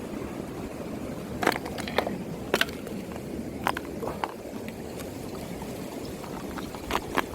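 Mountain stream water running steadily, with a number of short, sharp clicks and knocks scattered through it, a few of them loud.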